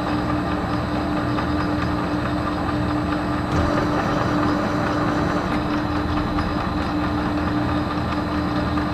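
Metal lathe running steadily under power during a spring pass while threading stainless steel, a continuous hum with a steady mid-pitched tone.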